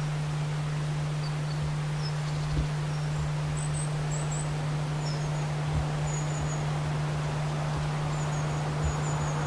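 Small birds chirping from the trackside trees and bushes, short high notes scattered every second or so, over a steady low hum and faint background hiss.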